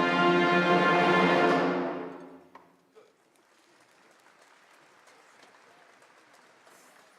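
Orchestral music ending on a loud, sustained chord that fades out about two to three seconds in, leaving faint room tone.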